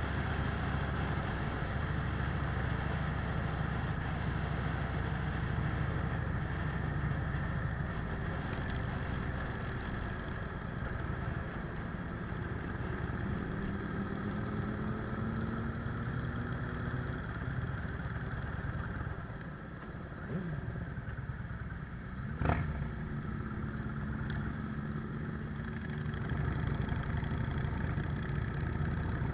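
Cruiser motorcycle's engine running on the move, heard from the rider's seat with wind noise over it. The engine note rises in pitch a few times in the middle, eases off about two-thirds of the way through, and a single sharp click comes shortly after.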